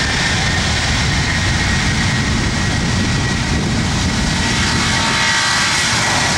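Airbus A330 airliner's jet engines at takeoff thrust: a steady, loud roar with a thin high whine running through it.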